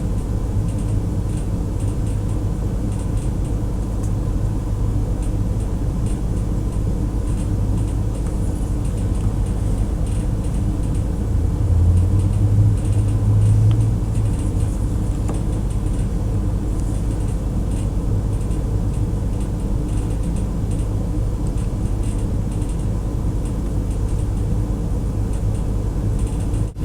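Steady low hum, briefly louder for a couple of seconds about halfway through.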